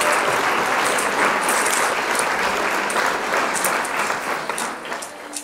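Red kidney beans, garlic and scallion sizzling in hot oil in a frying pan as they are stirred with a wooden spoon: a dense, crackling sizzle that eases off near the end.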